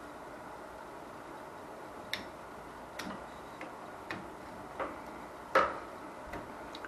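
Irregular light clicks and taps from hand tools and wiring parts being handled at an electric water heater's opened wiring compartment, about six in all, the loudest about five and a half seconds in.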